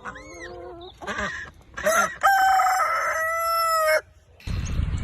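A parrot imitating a rooster's cock-a-doodle-doo: a few short rising calls, then a long held crowing note that cuts off suddenly near the end.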